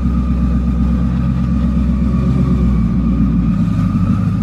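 Twin-turbocharged Coyote 5.0 V8 of a 2019 Mustang GT running at low speed with a deep, steady rumble as the car drives forward off the chassis dyno rollers.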